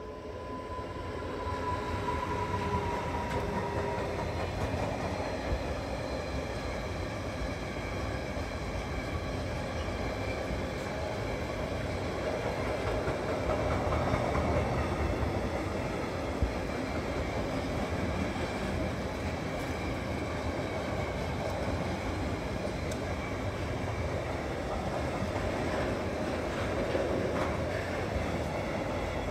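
A train passing: the steady rolling rumble of wheels on rail, swelling over the first two seconds and then holding.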